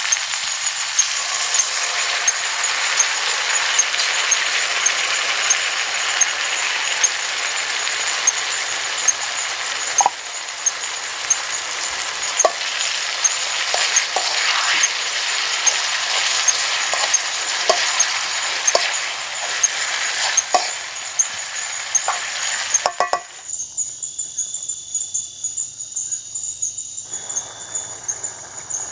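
Food frying with a loud, steady sizzle, with sharp clicks of a utensil stirring it in the second half. Near the end the sizzle cuts off suddenly, leaving insects chirping and a steady high insect drone.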